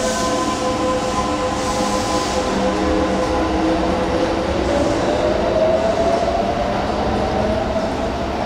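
Electric train running on rails, a steady rumble under a high whine; about halfway through a new whine starts and rises in pitch.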